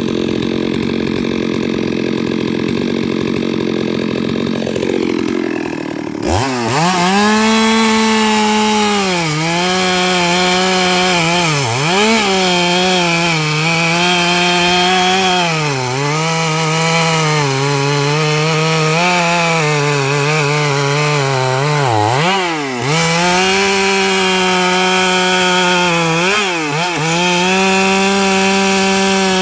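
Stihl MS 382 two-stroke chainsaw ripping eucalyptus logs lengthwise. It runs low and dull for the first few seconds, then revs high about six seconds in. Its pitch sags and recovers several times as the chain bogs into the wood under load.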